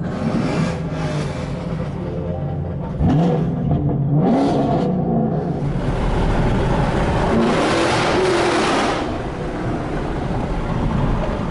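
Car engine running and revving as cars pull off, with the pitch rising a couple of times about three to four seconds in and a louder rush of exhaust and road noise from about seven to nine seconds in.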